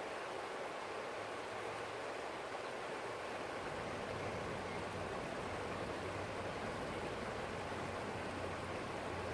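Forest stream flowing steadily, a continuous rush of running water over rocks.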